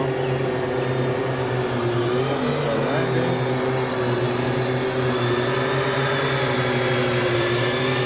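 FPV quadcopter's four brushless motors (T-Motor 2207.5, 2100KV) spinning tri-blade props, giving a steady whine whose pitch wavers slightly with throttle.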